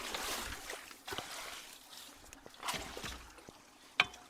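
Floodwater sloshing and trickling as leaves and debris are pushed into a clogged culvert, with a few sharp knocks, the loudest near the end.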